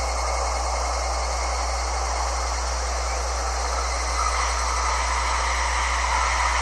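Limited express electric train approaching on the line, its rail and running noise a steady rush that grows slightly louder in the last couple of seconds, under a constant low hum.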